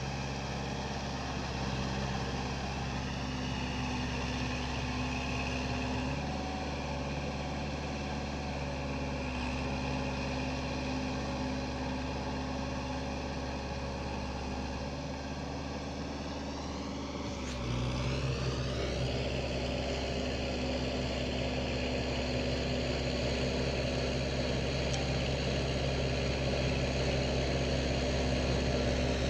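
Four-wheel tractor's engine running steadily. About two-thirds of the way through, its pitch rises and it gets somewhat louder as the engine speeds up, then it holds at the higher speed.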